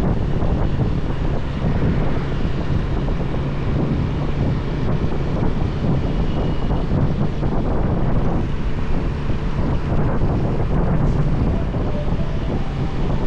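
Motorbike riding at speed on an open road: wind buffeting the microphone over a steady low engine drone.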